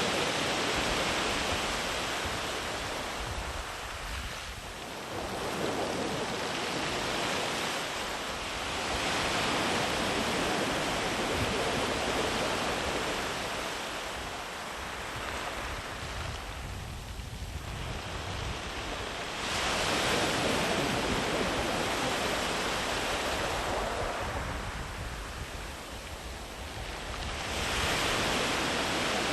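Ocean waves breaking and washing up a sand beach, a continuous surf noise that swells and eases in slow surges, with a new wave rushing in every several seconds.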